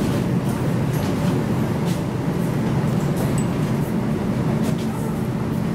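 Cabin noise of an MTR K-train electric multiple unit running on the line: a steady low rumble, with a few faint ticks and clinks over it.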